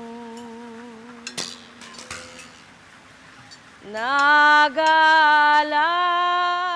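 A solo voice singing slow, unaccompanied held notes with vibrato: a soft note fades away, a few small clinks follow, and about four seconds in the voice comes back louder, sliding up into a long, wavering note.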